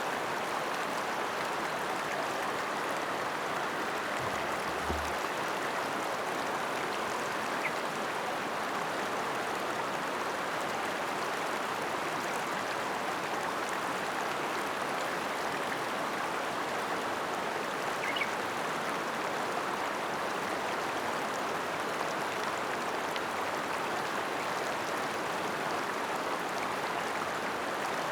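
River water flowing and rushing over rocks in a steady, even wash, with a couple of faint ticks.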